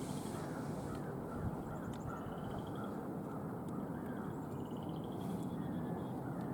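Small birds calling in short trills, several times, over a steady low rumble.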